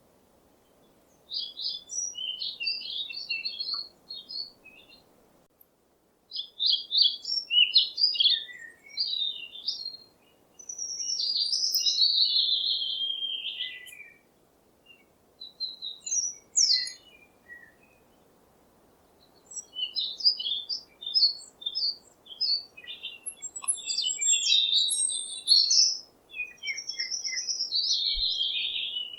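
Small birds chirping and twittering in bouts of quick high phrases, some falling in pitch, separated by short pauses.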